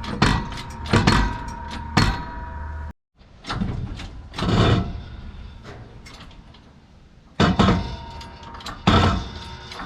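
Sharp metal-on-metal hammer strikes on a wheel hub, about one a second at first, with a ringing tone around them; the sound cuts off suddenly about three seconds in, and more strikes come near the end.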